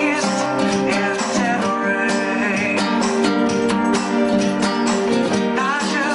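Acoustic guitar music, strummed steadily.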